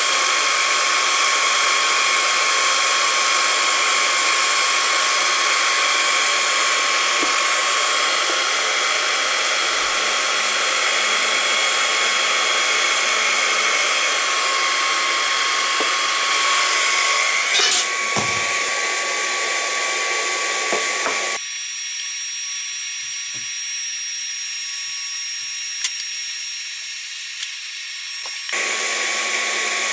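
Hot-air plastic welding gun's blower running steadily, a hiss with a fixed high whine, used to melt polypropylene filler into a cracked air filter housing. There is a short knock a little past halfway.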